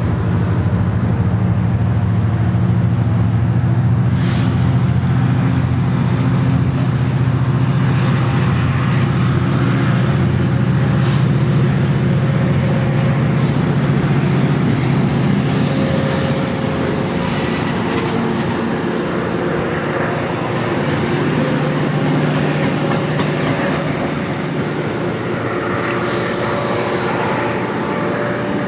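MARC commuter train rolling slowly past at the platform, with the steady deep drone of its diesel locomotive engine; the drone eases off about two-thirds of the way through. A few short high hisses sound over it about 4 and 11 seconds in.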